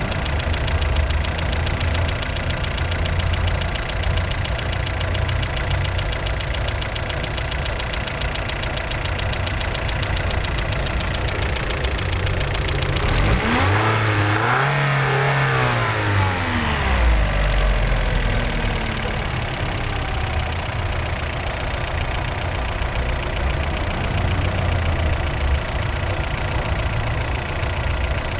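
Chevrolet Vectra 2.2 16V four-cylinder engine idling with a fast ticking, blipped once about halfway through so the pitch rises and falls back to idle. The owner traced the noise to worn hydraulic lifters and a broken exhaust manifold stud.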